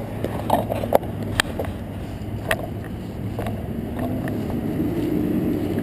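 Riding noise on a bicycle: a steady hum of road and wind, with a few sharp clicks or knocks in the first three seconds, like the bike or camera mount rattling over bumps. A faint rising tone comes in near the end.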